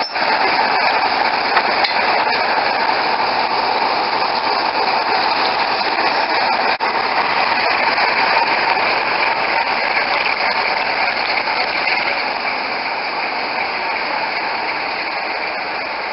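Diesel train running: a loud, steady mechanical din that eases slightly over the last few seconds.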